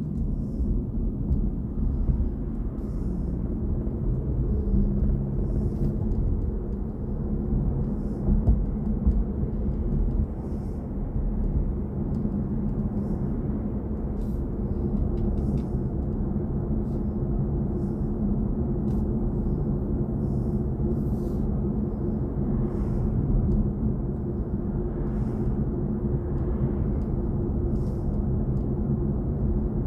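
Steady low road and tyre rumble from a BMW i4 M50 electric car under way, with no engine note.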